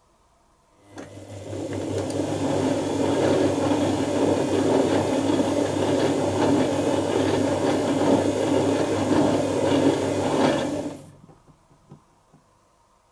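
Dyson Contrarotator CR01 washing machine running mid-wash for about ten seconds: a steady low hum under a rushing, rattling noise. It starts about a second in and cuts off abruptly near the end.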